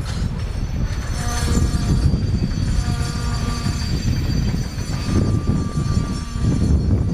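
Freight train of old boxcars and tank wagons rolling slowly past at about 10–15 km/h, held to that pace by a speed restriction on worn track. The wagons' steel wheels rumble heavily on the rails, with drawn-out high-pitched squeals from the wheels that come and go.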